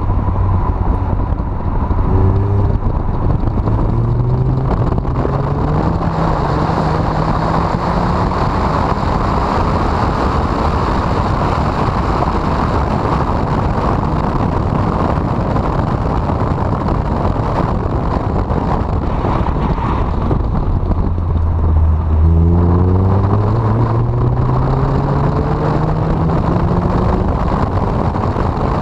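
Honda CRX four-cylinder engine pulling hard under acceleration, its note climbing steadily twice: near the start and again about three-quarters of the way through. In between it is buried under heavy rushing wind noise on the microphone.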